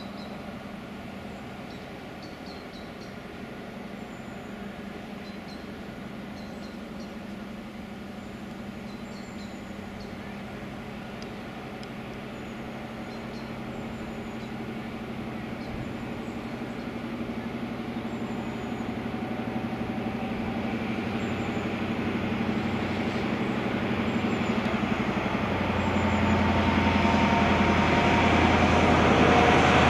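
A diesel High Speed Train led by a Class 43 power car approaching and drawing close, its engine and wheel rumble growing steadily louder, with a deep hum coming in near the end. Birds chirp faintly in the first half.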